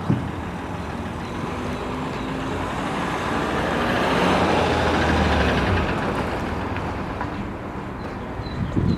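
A road vehicle driving past, its engine rumble and road noise swelling to a peak about halfway through and then fading away.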